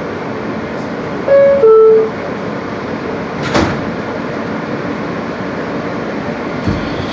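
Inside an R160B subway car: the two-tone descending door chime sounds, the signal that the doors are closing. About two seconds later a sharp knock is heard as the sliding doors shut, over the car's steady running noise.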